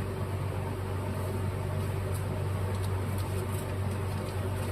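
Steady low hum of a running machine, with a few faint light ticks.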